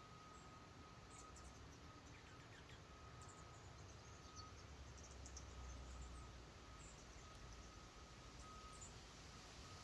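Near silence: faint outdoor ambience with a low rumble and a few faint, short, high chirps from small birds.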